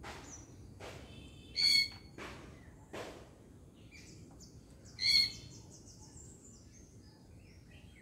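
A bird mimicking a parrot's call: two short, harsh screeches, one about a second and a half in and another about five seconds in, with fainter high chirps between them.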